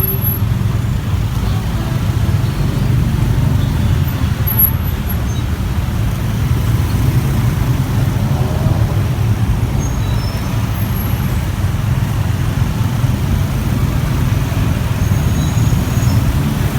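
Steady low rumble of a motorbike ride through dense road traffic: engine and road noise with no clear breaks.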